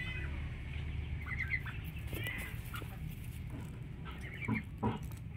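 Birds calling in short, high, arching chirps several times, over a steady low rumble. Two short lower sounds come near the end.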